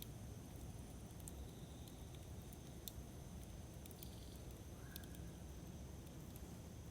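Campfire burning: a low, steady rumble of flames with a few sparse, sharp crackles, the clearest about three seconds in and again about five seconds in.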